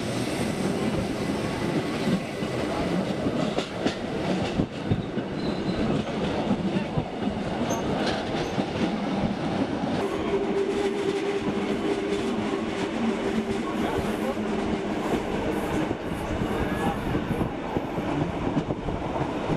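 A metre-gauge Rhaetian Railway passenger train running, heard from inside a carriage: the steady rumble of wheels on rail, with scattered clicks from the rail joints. A steady tone sounds for several seconds about halfway through.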